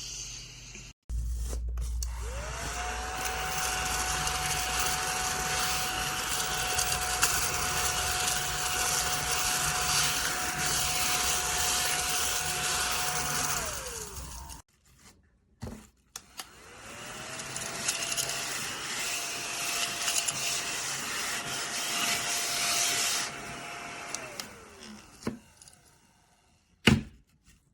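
ODISTAR cordless mini desktop vacuum cleaner's small motor switched on and running with a steady whine and airy rush for about twelve seconds, then winding down. It is switched on again and runs for about eight more seconds, then winds down. There is a sharp click near the end.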